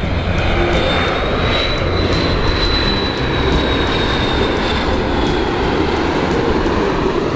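Jet airliner engines running with a steady, loud noise, and a high whine that rises slightly and then fades out through the middle.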